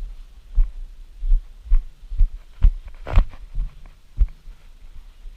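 Dull low thuds on the camera's microphone about twice a second, in a walking rhythm, with one sharper knock a little past halfway: handling bumps from a camera being jostled as it is carried.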